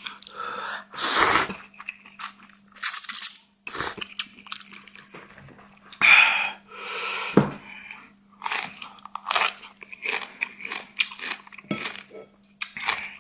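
Close-up eating sounds: a person chewing and biting food in irregular bursts.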